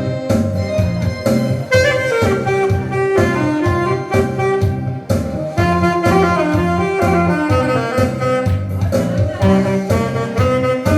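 Alto saxophone playing a melody over a backing track with a steady drum beat and bass line. The saxophone melody comes in about two seconds in.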